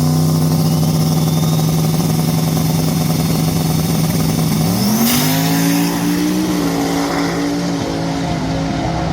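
Car engine revved up and held at steady high revs, then pushed higher again about five seconds in and held before easing off at the end.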